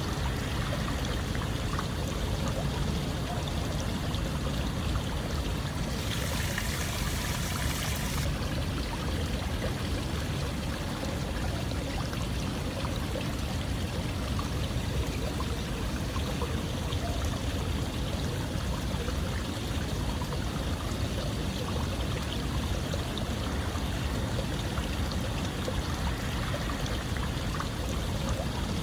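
Running water flowing and splashing steadily, a continuous rushing hiss, with a brighter, hissier stretch lasting about two seconds near six seconds in.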